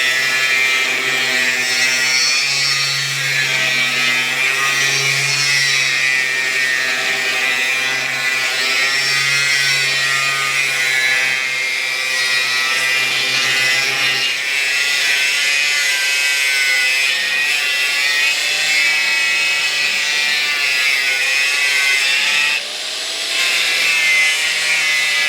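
Cutoff wheel grinding through the aluminum weld seam of a fuel tank end cap, a steady high whine whose pitch wavers as the wheel bites. It dips briefly near the end.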